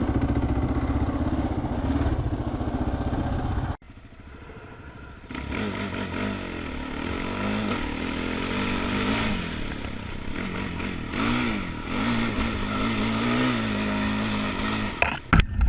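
Motorcycle engine running, its pitch rising and falling as it revs. The sound cuts off abruptly about four seconds in and resumes quieter, and there are a few sharp loud noises near the end.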